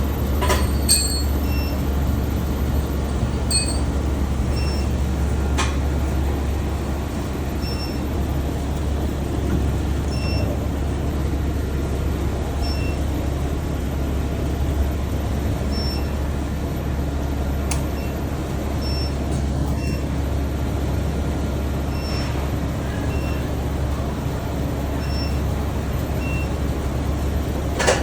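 SPB-TB15 induction gold melting furnace running with a steady low hum. Short, faint high beeps come every second or few, and there is a clank right at the start.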